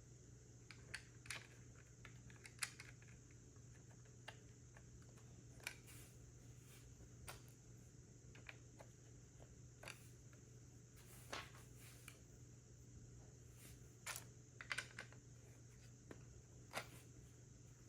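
Lego plastic pieces clicking and snapping together as a set is built by hand: scattered, irregular sharp clicks, several close together around two thirds of the way through, over a faint steady hum.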